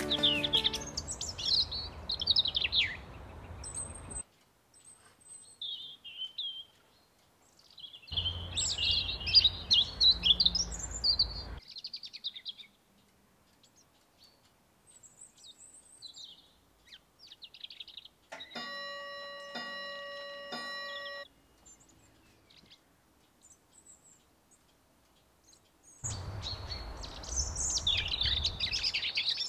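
Birds chirping and singing in several short stretches separated by near-quiet gaps, over a low outdoor background that cuts in and out. A few seconds of chime-like ringing tones come about two-thirds of the way through.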